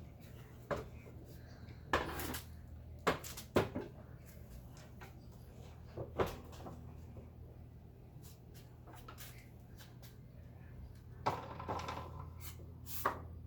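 Irregular knocks, clicks and short scrapes of a vacuum cleaner's parts being handled, over a steady low hum.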